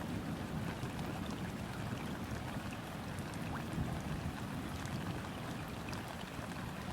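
Rain falling on a river's surface: a steady patter of fine drop ticks over a low, even wash of water.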